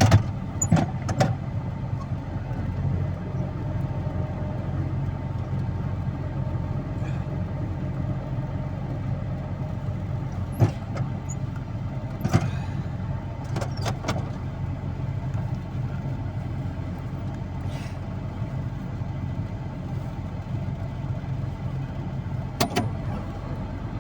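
A motor vehicle's engine running with a steady low drone, with a few short sharp clicks and knocks scattered through it.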